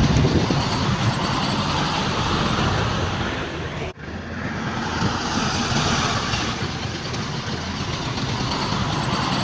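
Heavy diesel earthmoving machinery running, a steady dense engine noise, with a brief dropout about four seconds in.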